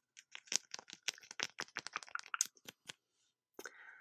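A quick run of close-miked clicks and taps, many in under three seconds, then a brief breathy hiss near the end.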